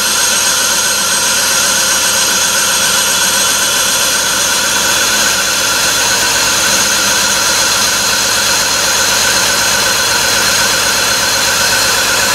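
2004 BMW 325xi's 2.5-litre straight-six idling steadily in the open engine bay, with a steady high whine over the engine note. The engine has low compression in cylinder one and is pulling only low manifold vacuum.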